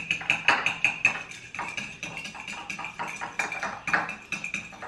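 Egg being beaten in a bowl with a metal utensil: quick clinking strokes against the bowl, about five a second, each with a short ring, a little softer in the middle.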